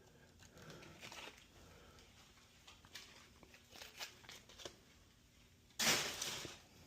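Hand-work noises during drywall repair: scattered clicks, taps and rustles, then one loud, rough scraping or rustling noise lasting under a second near the end.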